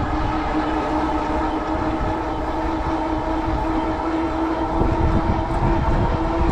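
Steady pitched hum from a Cyrusher Kommoda fat-tire e-bike riding at about 21 mph, with wind rumbling on the microphone.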